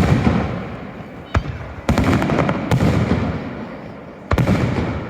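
Aerial firework shells bursting in a quick series: five sharp bangs, each trailing off in a crackling echo.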